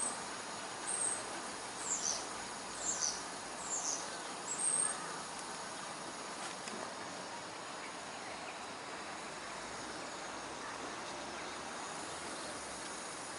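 A small bird calling: short, very high thin notes about once a second, several of them sliding down in pitch, stopping about five seconds in. Steady outdoor background noise runs throughout.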